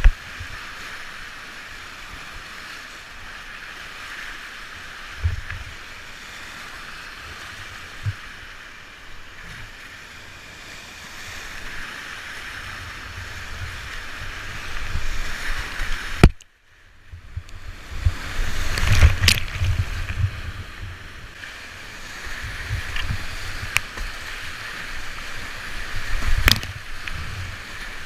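Whitewater river rapids rushing steadily, with irregular low thumps of water and wind buffeting the microphone. About 16 seconds in a sharp click is followed by a brief drop-out, after which the splashing comes louder and more uneven.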